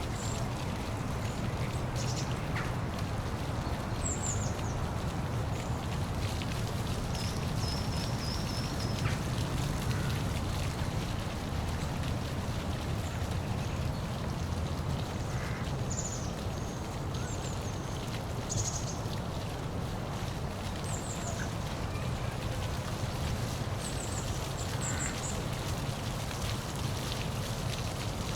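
Steady rushing of a waterfall, with brief high bird chirps scattered through it.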